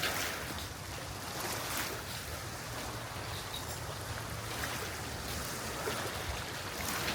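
Steady rush of sea waves and wind, with a few louder washes rising and falling.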